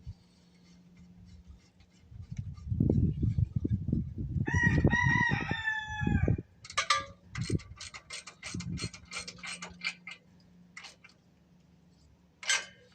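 A rooster crowing once: one long call that falls slightly in pitch, about four seconds in, over low knocking and rumbling. Then comes a quick run of sharp clicks, about five a second, and one more click near the end.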